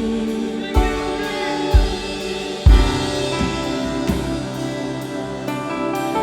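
Live worship band music in a gap between sung lines: held chords with three deep drum hits in the first three seconds.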